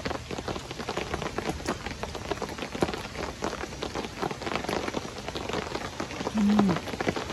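Heavy rain falling on a large camping tarp overhead, a dense steady run of drop hits. About six and a half seconds in, a short low hum from a person's voice.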